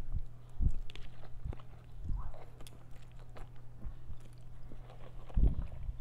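Close-miked chewing of a mouthful of noodles: soft, irregular wet mouth clicks and low knocks, with a louder cluster near the end, over a steady low hum.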